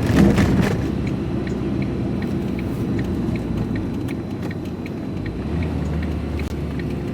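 Vehicle engine and road rumble heard from inside the cab while driving, with a short rush of noise about a second in. A regular light ticking runs through it at about three clicks a second, the turn indicator signalling right.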